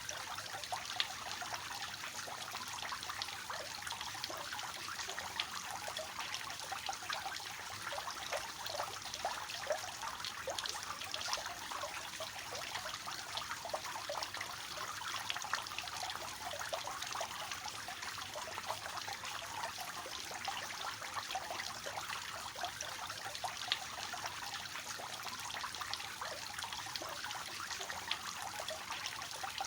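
Water falling from a three-tiered fountain, splashing and trickling steadily with many small splashes.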